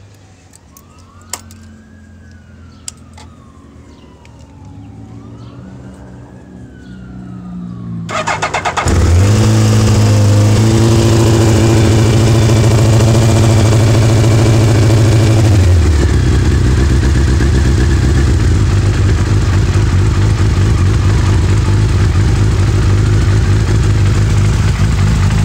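2000 Suzuki Hayabusa's 1300 cc inline-four, fitted with new exhaust manifold gaskets, cranking over briefly about eight seconds in and starting, running at a raised idle and then settling to a lower steady idle about sixteen seconds in.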